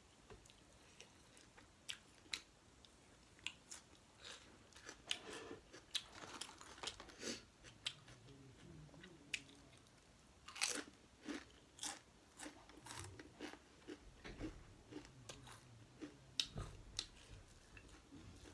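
Close-up mouth sounds of eating: irregular crisp crunches of potato chips being bitten and chewed, between softer chewing of mouthfuls of rice and curry. The loudest run of crunches comes about ten seconds in.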